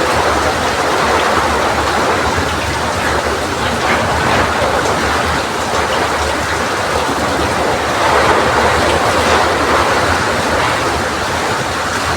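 Heavy rain driven by strong wind: a dense, steady rush of noise that swells a little about eight seconds in.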